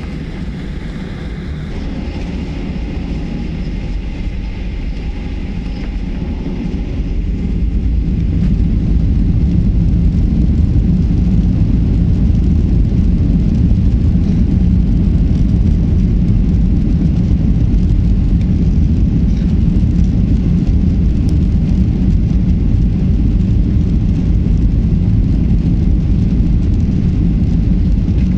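Garuda Indonesia airliner's jet engines at takeoff, a loud low rumble that grows over the first eight seconds or so and then holds steady.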